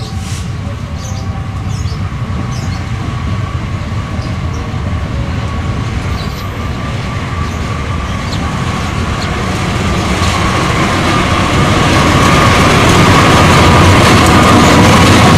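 A train running on the rails toward the listener. It rumbles steadily with a high wheel squeal, grows louder from about eight seconds in, and is loud by the end.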